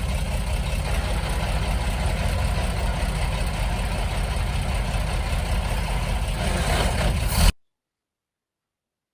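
Heavy construction-machine engine running steadily at a low idle. It cuts off suddenly about seven and a half seconds in.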